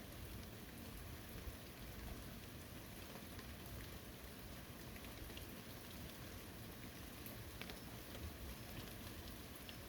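Steady light rain falling on a forest, with scattered individual drops ticking on nearby surfaces.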